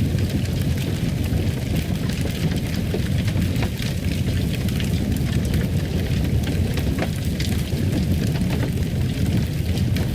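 Fireplace fire burning: a steady low rumble with many small crackles and pops scattered throughout.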